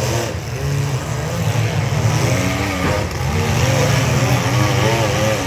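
Engines of several mid-size demolition derby cars running and revving, their pitch rising and falling over and over.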